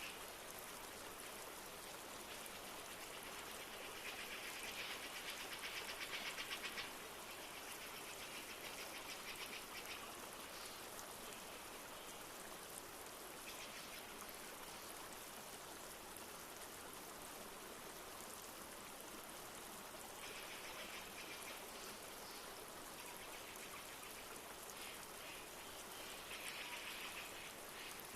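Steady rush of a flowing river with light rain falling. A rapid high trilling call cuts in a few times over it, loudest about four to seven seconds in and again near the end.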